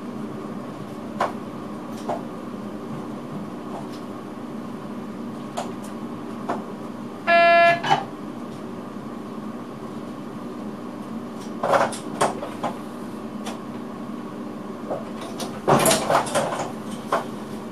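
Electric train cab running slowly through a station, with a steady hum and scattered clicks and knocks. About seven seconds in comes a short single-pitched tone, the loudest sound here. A burst of clattering comes near the end.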